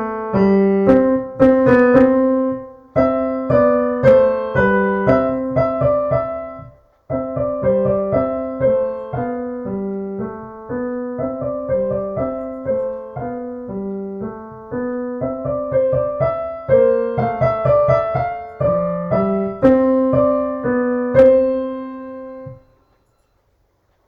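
Piano playing a short piece of quick, separate notes in the middle register, with a brief break about seven seconds in; the playing stops a second or so before the end.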